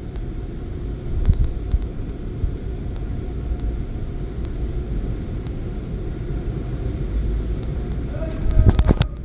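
Van running with a steady low rumble and a few faint ticks. Near the end come a brief higher tone and a short, louder burst of noise.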